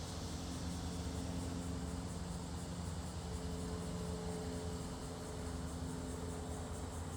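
Steady outdoor ambience: a low mechanical hum made of several steady tones over an even noise bed, with faint insect chirring high above it.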